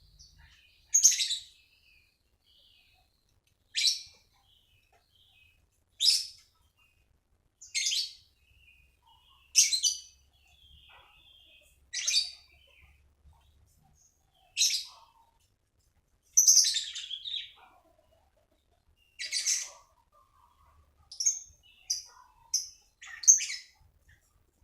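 A songbird giving short, loud, high calls about every two seconds, with fainter chirping between them. Near the end the notes come faster, about two a second.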